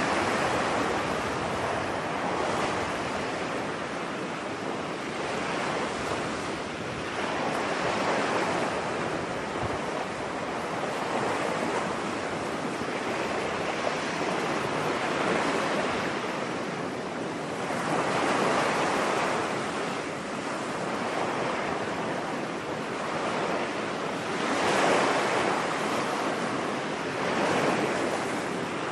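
Ocean waves washing onto a beach: a steady surf hiss that swells and falls back every few seconds as each wave breaks.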